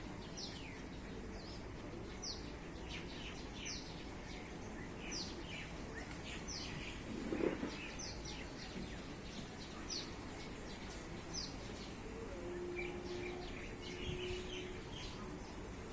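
A small bird chirping over and over, short high notes that drop in pitch, about one every second, against steady outdoor background noise. A brief louder sound cuts in about halfway, and a faint low steady tone holds for a few seconds near the end.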